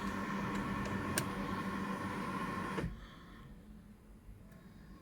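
A car's electric fuel pump priming with the ignition switched on before a cold start: a steady hum that cuts off suddenly about three seconds in.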